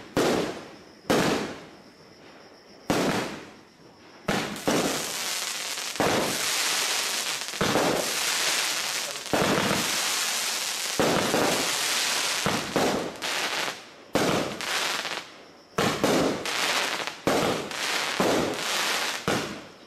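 28-shot, 28 mm fireworks battery (cake) firing: shots about a second apart at first, then a long run of dense bursting and crackling, then quicker shots again near the end.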